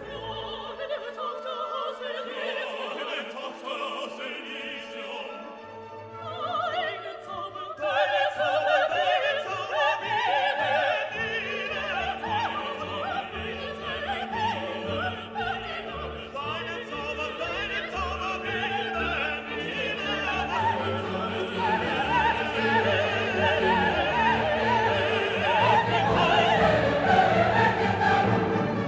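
Classical music: an orchestra with operatic singing, growing fuller and louder about eight seconds in.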